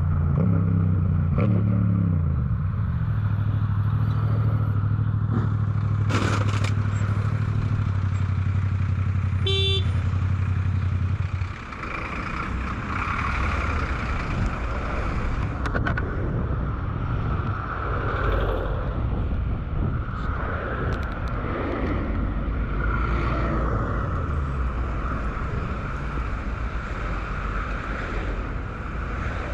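Road vehicle driving: a steady low engine hum whose pitch falls slightly over the first two seconds, then gives way abruptly about eleven seconds in to rougher road and traffic noise.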